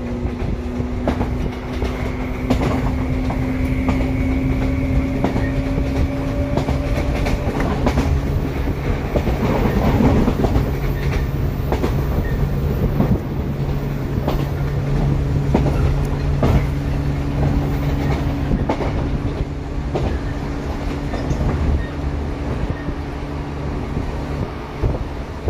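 Shinano Railway 115-series electric train (motor car KuMoHa 115-1067) running, heard from inside the car with the windows open. Wheels clickety-clack over rail joints. A motor whine rises slightly in pitch over the first several seconds, then fades, and a lower hum holds through the second half.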